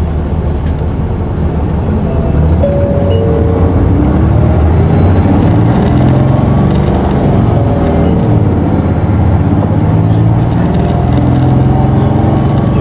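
Interior running sound of an Isuzu Erga city bus, its inline-six diesel pulling hard under acceleration. The engine note gets louder about two seconds in, and its pitch climbs as the revs rise.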